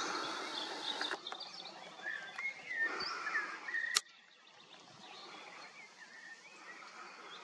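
Small birds chirping and calling over outdoor ambience, with short rising and falling whistled notes. About four seconds in, a click and a sudden drop in level, after which the birdsong is fainter.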